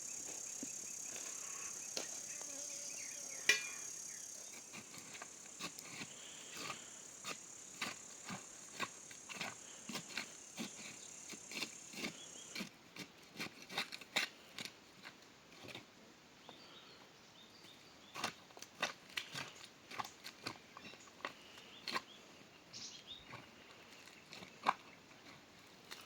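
Insects chirring in a steady high-pitched drone that stops abruptly about halfway through, with irregular sharp clicks or snips throughout.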